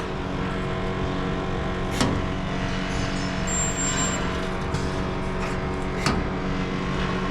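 Resistance spot welder humming steadily, with two sharp clicks about four seconds apart.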